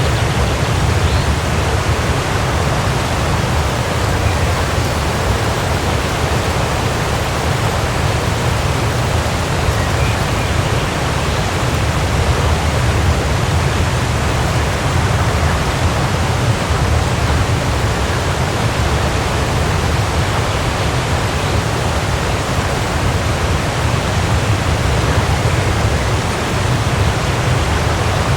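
Waterfall: a steady, unbroken rush of falling water, deepest and heaviest at the low end.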